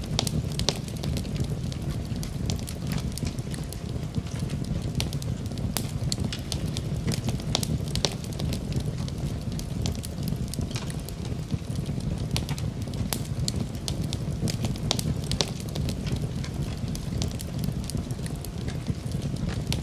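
Wood fire burning in a fireplace: a steady low rumble of flames with frequent irregular sharp crackles and pops from the burning wood.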